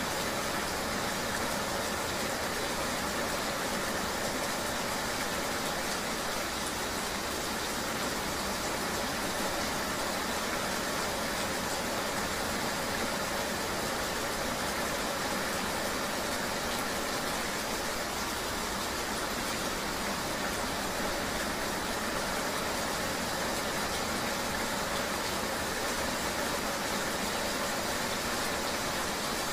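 Steady rain ambience heard while riding in the rain, with a vehicle running underneath: an even, unbroken hiss with no separate events.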